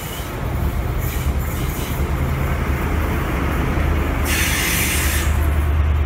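Diesel trains running through a station: a steady low engine drone that grows louder near the end as an InterCity 125's Class 43 power car passes close by. About four seconds in comes a burst of hiss lasting about a second.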